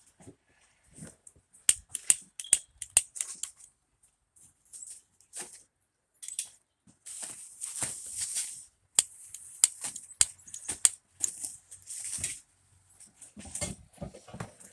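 Irregular sharp clicks and clinks with short rustling hisses, as of tools and parts being handled.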